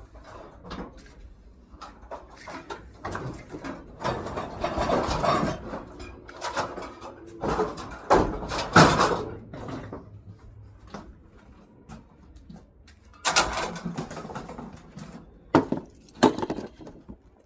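Scrap being handled and worked apart: irregular clanks, knocks and scraping, loudest around the middle and again a few seconds before the end.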